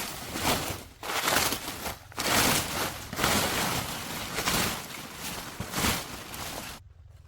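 Dry leaf litter rustling and crunching in a run of rough bursts about a second apart, as it is pushed through or trodden on; it dies down near the end.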